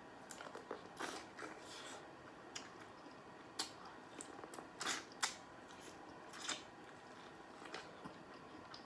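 A person biting and chewing boiled corn on the cob close to the microphone: faint, irregular wet chewing with a scatter of short, sharp bite clicks.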